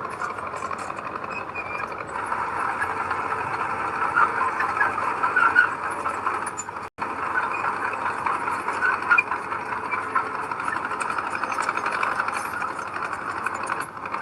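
Heavy diesel earthmoving machinery running steadily under work, a dense mechanical clatter, cutting out for an instant about halfway through.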